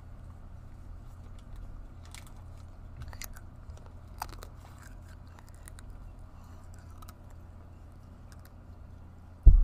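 Soft chewing with small scattered mouth clicks as chocolate-covered jelly beans are eaten, over a steady low hum. A single loud, dull thump comes near the end.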